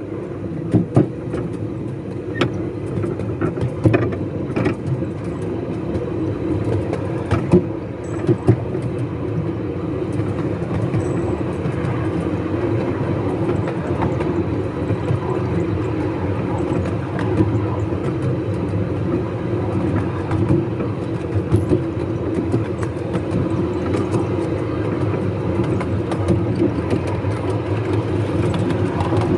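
Miniature railway train running along the track: a steady low rumble of wheels on rail, with occasional sharp clicks and knocks in the first several seconds.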